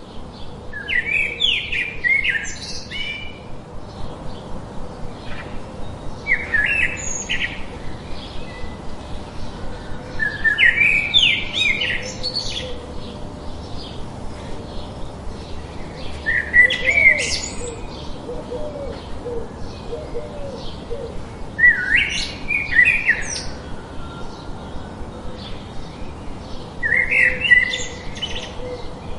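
A songbird singing a short, high-pitched phrase of one to two seconds about every five seconds, with softer chirps repeating rapidly in between.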